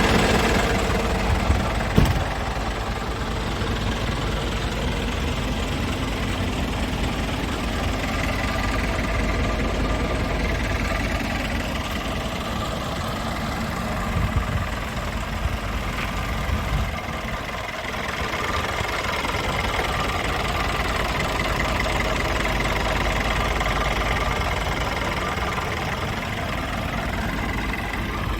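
Scania S410 tractor unit's 13-litre inline-six diesel idling steadily, with one sharp knock about two seconds in.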